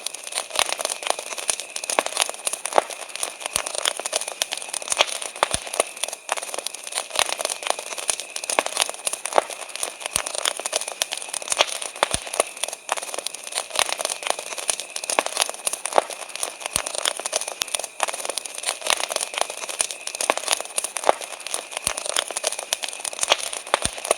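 Wood campfire crackling, with dense irregular snaps and pops over a steady hiss, and crickets chirring in a steady high band behind it.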